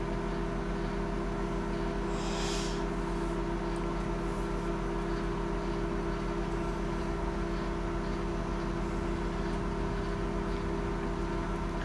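Microwave oven running on high power: a steady, even electrical hum, with a short soft hiss about two seconds in.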